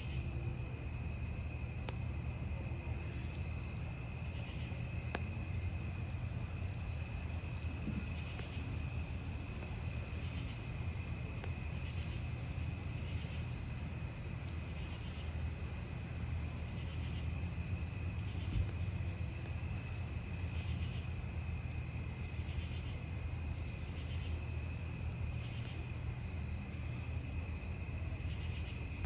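Crickets trilling steadily, with another cricket chirping about once a second, over the low crackle of a wood campfire with an occasional sharp pop.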